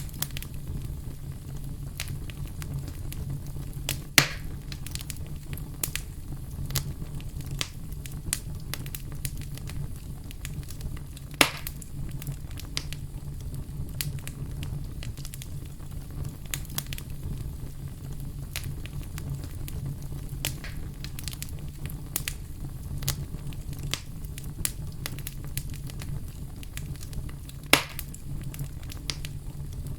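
Wood fire burning in a fireplace, with steady crackling and three louder pops of the burning wood, about 4, 11 and 28 seconds in.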